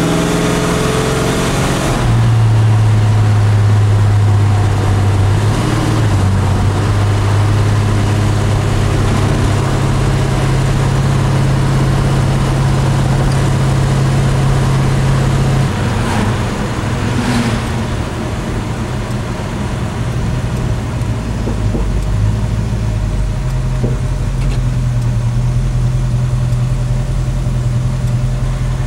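A big-block 396 V8 in a 1981 Monte Carlo, heard from inside the cabin while driving. The engine climbs in revs over the first couple of seconds, then settles into a steady low drone. The drone eases about halfway through and picks up again a few seconds before the end.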